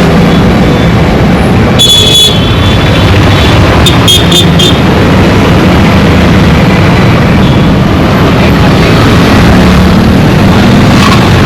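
Dense road traffic: vehicle engines running steadily in a continuous loud wash of noise, with a few brief sharp high sounds about two seconds and four seconds in.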